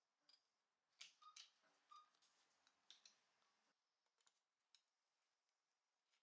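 Near silence, with a scatter of faint clicks and light ticks between about one and five seconds in.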